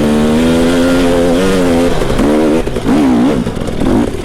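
Dirt bike engine running at steady throttle, then the throttle is chopped and reopened several times about halfway through, the engine note dropping and rising quickly as the bike works through a rough section.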